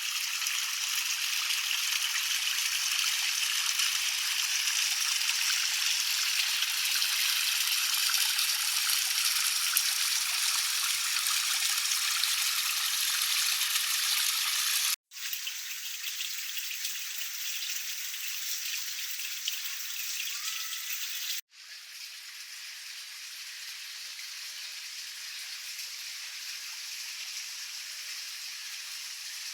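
Running, splashing water, a steady hiss with no low rumble, in three takes that cut off suddenly about 15 s and 21.5 s in, each quieter than the one before.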